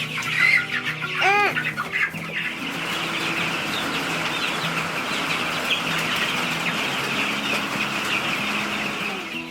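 A brooder crowded with three-week-old meat chicks peeping and chirping in a dense, steady chorus, with one louder call standing out about a second in.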